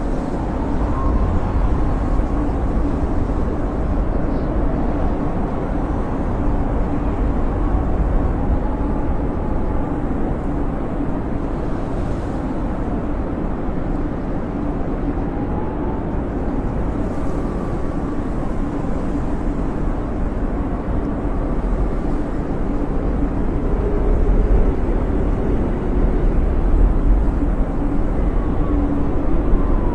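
Blizzard wind blowing steadily with a deep rumble, and faint high whistles that rise and fall in pitch as it howls.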